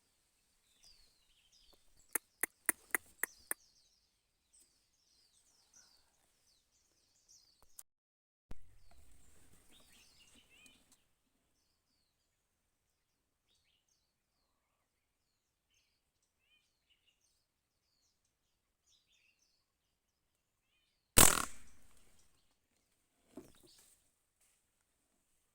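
Small birds chirping in short falling notes, with a run of six quick clicks about two seconds in and a brief rustle. Later comes one loud sharp shot that rings out and dies away over about a second: a hunting shot at birds.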